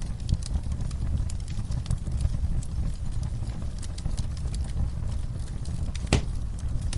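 Campfire burning: wood crackling with irregular sharp pops over a steady low rumble, with one louder crack about six seconds in.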